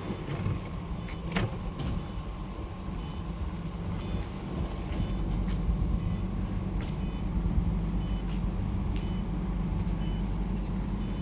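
Interior running noise of a Flexity low-floor tram on the move: a steady low rumble and hum with light clicks and rattles, growing somewhat stronger about four to five seconds in.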